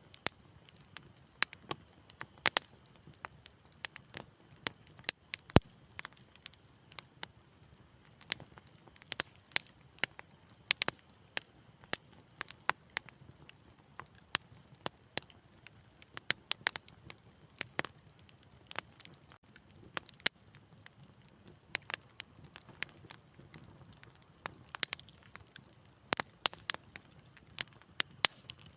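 Wood fire crackling and popping: irregular sharp snaps, several a second, over a faint low rumble of flame.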